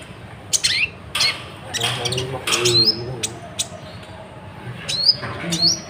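A bird's short chirps and squawks, several quick calls rising sharply in pitch, with sharp clicks between them.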